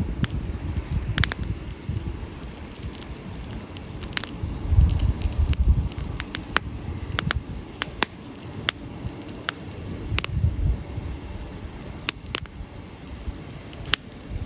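Wood campfire crackling, with sharp irregular pops and snaps scattered throughout. Under it runs a low rumble that swells about five seconds in and again near ten seconds.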